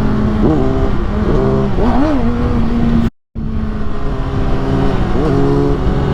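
Inline-four 600cc sport bike engines running on the road, with wind rushing over the helmet microphone. Several quick throttle blips rise and fall in pitch over the steady engine note. The sound drops out for a moment about three seconds in.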